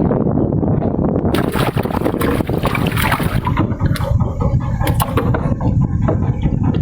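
Small fishing boat under way on a river: a steady low motor rumble, with a rush of hissing water noise about one to three seconds in and a few sharp knocks near the end.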